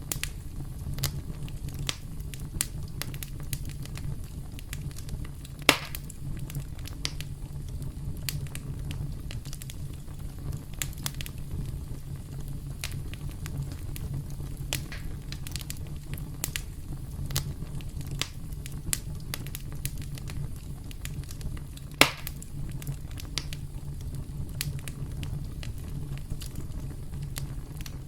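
Campfire crackling: a steady low rumble of burning wood with frequent irregular snaps and pops, two of them louder, about six seconds in and about twenty-two seconds in.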